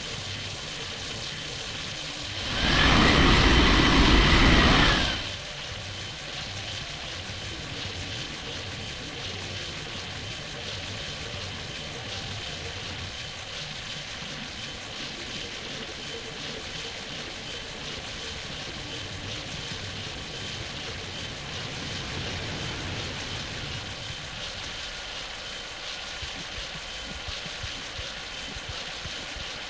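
Airbus A380 airliner on landing approach: a steady, distant jet-engine rumble with a faint high whine. About two and a half seconds in, a much louder rush of noise rises sharply, lasts about two and a half seconds and cuts off suddenly.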